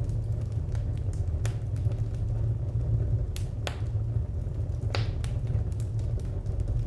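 Wood fire crackling: irregular sharp pops and snaps over a steady low rumble, with two louder pops a little past the middle.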